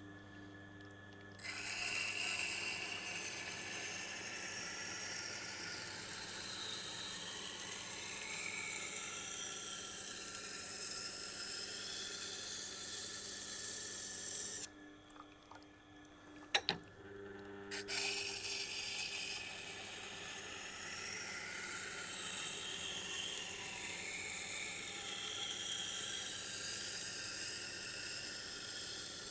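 Knife steel being ground on a Tormek T8's water-cooled SG-250 grindstone, the wheel freshly roughened with an 80-grit diamond plate: a steady gritty hiss over the machine's low hum. It stops for a few seconds in the middle, with a single click in the gap, then resumes.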